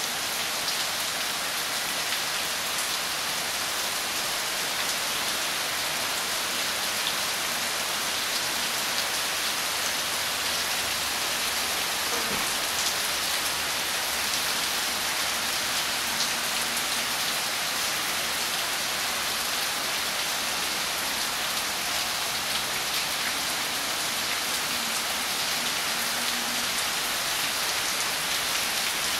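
Heavy rain falling steadily on wet concrete paving and leaves: an even, dense hiss of splashing with scattered sharper drop ticks.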